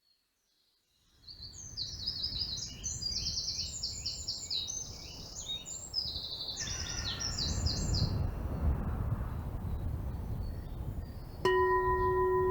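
Birds singing in quick high trills of repeated notes over a low steady rumble. About a second before the end, a crystal singing bowl starts sounding a single steady tone with overtones.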